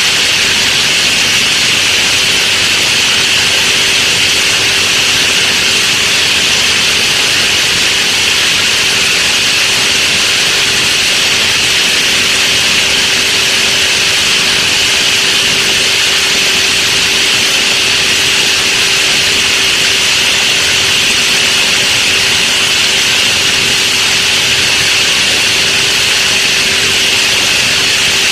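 Animal feed grinder-mixer machine running steadily: a loud, even rushing noise with a steady hum beneath it.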